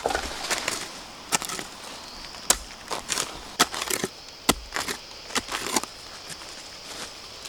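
Chopping at wood: a string of irregular sharp strikes with crackling between them, over a steady high-pitched hum.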